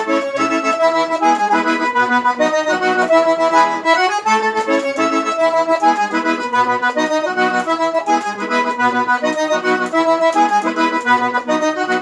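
Accordion (sanfona) playing an instrumental forró melody, with short bass notes pulsing evenly underneath.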